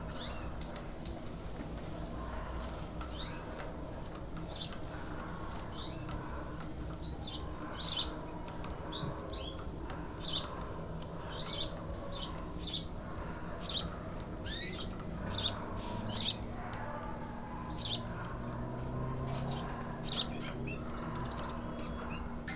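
Young yellow canary giving short, high chirps at irregular intervals, a few of them louder, over a faint steady background hum.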